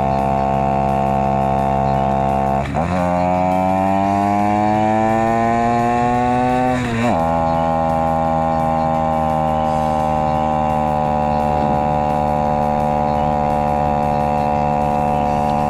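Honda Monkey's small single-cylinder engine pulling uphill under load, played back at double speed. There are two short drops in sound with jumps in pitch at gear changes, about three seconds in and again about seven seconds in. Between them the engine pitch climbs steadily as it pulls through the gear, and after the second change it runs on fairly steadily, sagging a little.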